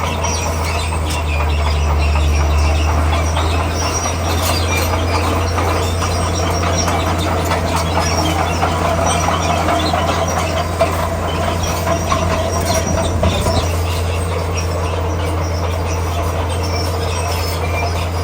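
Komatsu D41P crawler bulldozer working, its diesel engine running with a steady low drone while the steel tracks squeal and clank.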